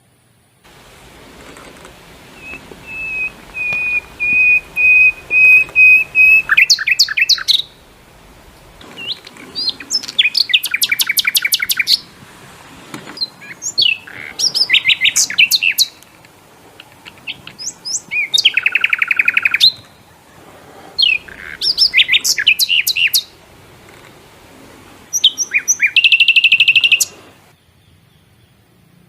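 A songbird singing close by: a long, steady held whistle, then loud phrases of rapid trills and sweeping whistles repeated about every four seconds, with short quiet gaps between them.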